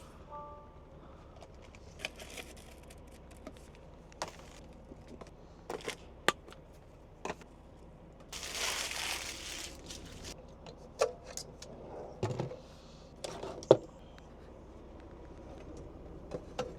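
Kitchen things being handled and set down during cleanup: scattered sharp clicks and knocks, with about two seconds of rustling about halfway through.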